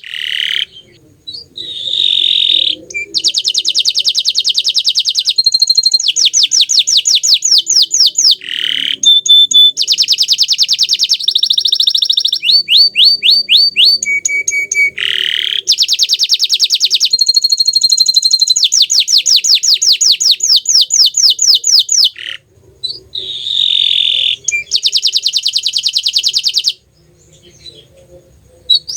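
Domestic canary singing a long, loud song made of rapid trills and repeated high notes, phrase after phrase with brief pauses. There is a short break in the song about two-thirds of the way through.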